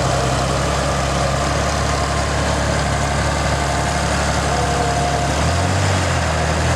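Cockshutt 1750 tractor engine running steadily under a pull in too high a gear. Its low note shifts about five seconds in.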